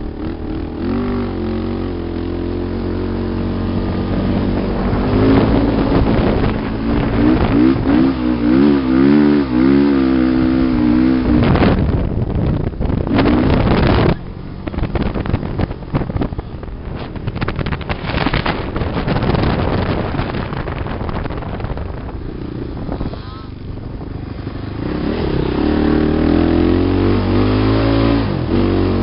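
Off-road dune vehicle engine revving up and down, its pitch wavering as it rides over the sand. Partway through it gives way to wind rushing over the microphone, then the engine climbs again near the end.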